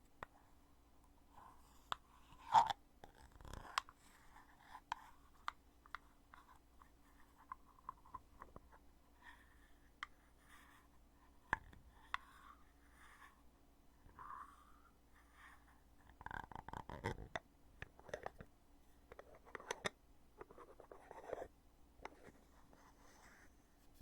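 Lid of a foundation container being opened and closed by hand: scattered clicks and soft scraping, the loudest click about two and a half seconds in and a denser run of handling noise around sixteen to seventeen seconds.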